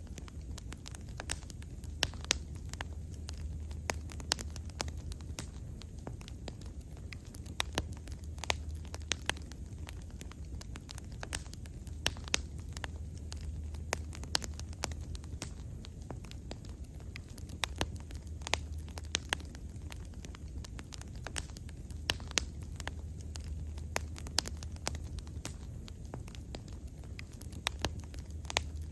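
Wood fire crackling and popping, with frequent irregular sharp snaps over a low steady rumble of the flames.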